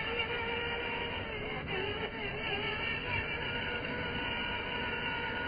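Sherp amphibious ATV's diesel engine running steadily under way, with a held drone whose pitch wavers slightly.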